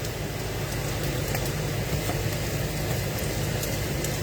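Steady hiss of food cooking on the stove, with a low hum underneath and a few faint pops, while the rice is nearly done.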